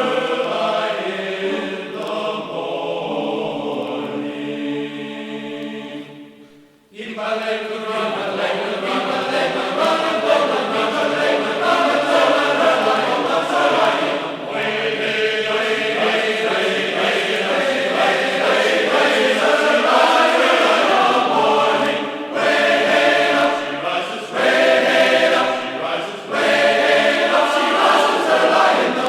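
Background music of group voices singing, with a brief break about six to seven seconds in before the singing starts again.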